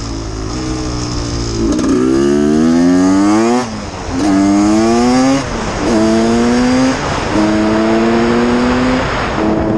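1989 Honda CR250's two-stroke single-cylinder engine accelerating hard through the gears. The pitch climbs in a rising whine, drops briefly at each upshift about four times, and each later gear climbs more slowly.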